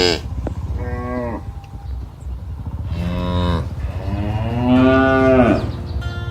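Cows mooing: a short moo about a second in, another about three seconds in, and a longer, louder moo near the end that drops in pitch as it dies away, over a steady low rumble.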